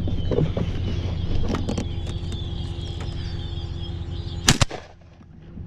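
A flock of blackbirds chattering over a steady low rumble. About four and a half seconds in, a sharp gunshot cracks twice in quick succession.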